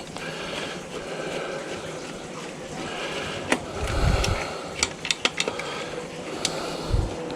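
Scattered sharp clicks and clinks with two dull thumps: screws and metal parts being handled as circuit boards are unscrewed from an autoclave.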